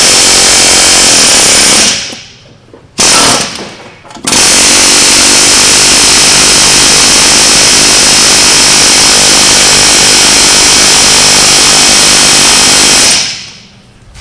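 Pneumatic air tool hammering hard against a seized wheel hub on a 2014 Dodge Ram 1500, to drive the stuck hub loose. It runs in loud stretches: about two seconds at first, a short one about three seconds in, then a long one of some nine seconds that stops shortly before the end.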